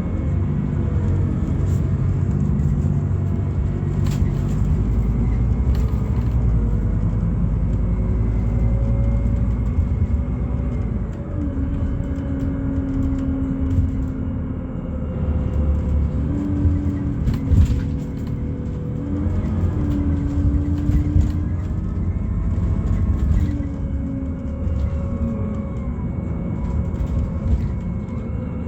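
Scania Citywide LFA city bus on natural gas, its Scania OC09 five-cylinder engine and ZF automatic gearbox heard from inside the bus under way, over a steady road rumble. The engine note climbs, then steps with each gear change, several times over, with a few knocks from the body.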